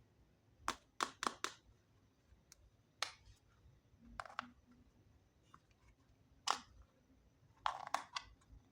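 Small plastic toy kitchen pieces being handled: a dozen or so sharp clicks and taps in irregular clusters as parts are picked up, set down and snapped into place.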